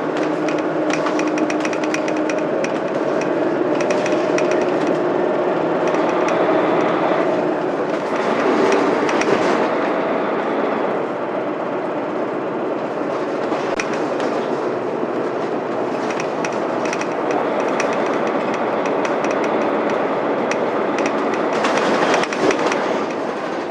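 Interior running sound of a Mitsubishi Fuso Aero Star city bus with its 12.9-litre 6M70 inline-six diesel and five-speed manual gearbox under way. The engine drone shifts pitch a few times as the bus changes speed. Rattling and clicking from the body and fittings runs throughout, with a sharp knock about 22 seconds in.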